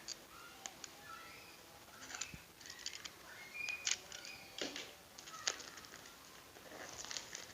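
A small cardboard gift box being handled and opened by hand: scattered light clicks, taps and rustles of packaging, with a few short squeaks.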